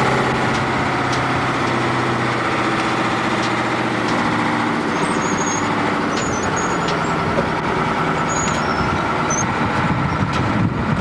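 Motor vehicle engine running steadily with a low hum. The hum's lowest note drops away about halfway through, and a few short high chirps come in the middle.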